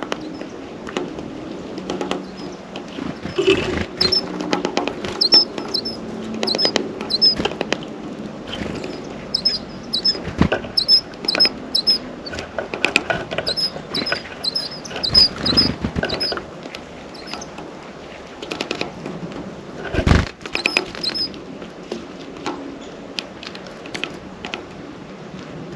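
Small birds at a feeder: irregular tapping and clicking as they peck and shift about on it, with a louder knock about 20 seconds in. Through most of this, a bird calls in short high chirps, repeated in pairs a few times a second.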